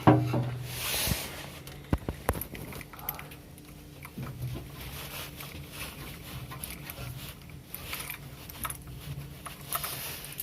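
Scattered clicks and light scraping as a plastic washing-machine inlet tap adapter is handled and pushed onto a plastic water tap. The sharpest clicks fall in the first two and a half seconds.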